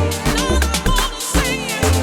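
Live electronic house music jam: a repeating bass line and short synth notes that bend up and down in pitch over crisp drum-machine percussion.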